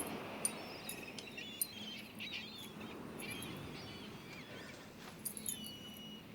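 Faint seagulls calling, with scattered short cries over a low, steady background.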